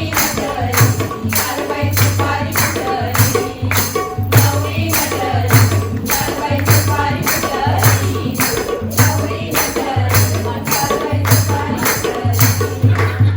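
Women singing a traditional Mangalagaur folk song to a steady beat of sharp, jingling strokes, about two and a half a second.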